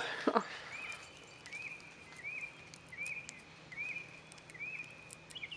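A bird repeating a short high rising-and-falling note, about one every three quarters of a second, over a faint steady high drone.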